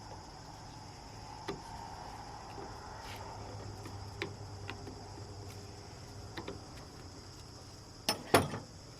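Scattered faint clicks of hand tools at work on a truck battery's terminals and hold-down, with a few sharp, loud metal clanks about eight seconds in as the battery comes free. A steady high-pitched tone sounds underneath.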